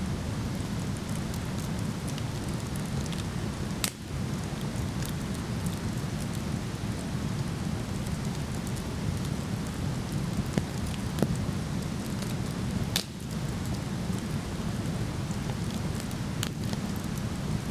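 Steady low rush of a waterfall, with a wood fire crackling over it: a few sharp pops, the clearest about four seconds in, about thirteen seconds in and near the end.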